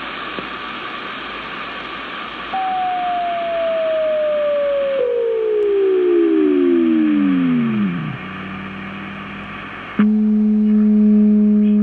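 Amateur AM radio band heard through a receiver as transmitters tune up: steady static hiss with heterodyne whistles from the carriers. One whistle comes in about a couple of seconds in and slides steadily down in pitch to a low growl before dropping out, and near the end a steady low buzzing tone switches on suddenly.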